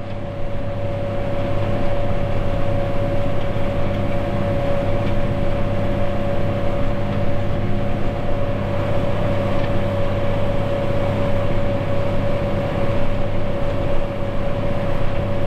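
Farm tractor running steadily at working speed while pulling a hay tedder, with a steady high whine over the low engine drone.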